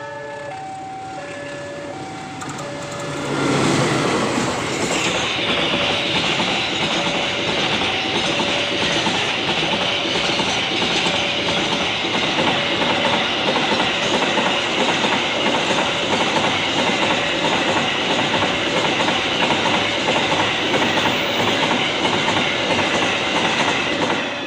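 A railway level crossing warning alarm sounds a steady two-tone alternating signal. About three seconds in, a train passes close by, loud and continuous for around twenty seconds, with the alarm still going underneath. Near the end the train clears and the sound drops away.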